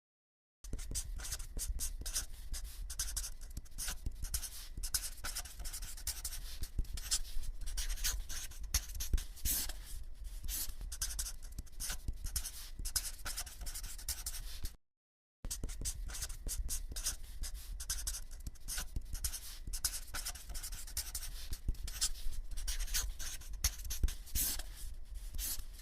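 Close-up scratching and crackling from something being rubbed or scraped over a surface, a dense run of small irregular clicks, stopping briefly for about half a second near the middle and then going on.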